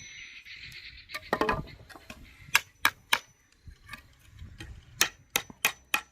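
Sharp chopping blows of a blade on wood, cutting kindling for a campfire, coming in short runs of three or four strikes about a third of a second apart.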